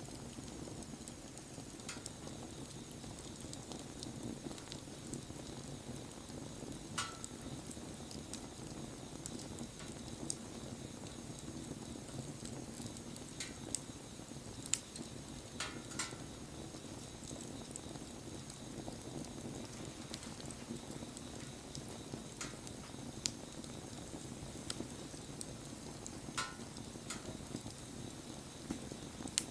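Wood fire burning: a steady low rush from the flames, with scattered sharp crackles and pops from the burning wood.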